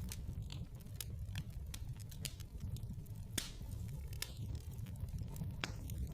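Wood fire in a fireplace crackling: irregular sharp pops and snaps over a low steady rumble of the flames. The loudest pop comes about three and a half seconds in.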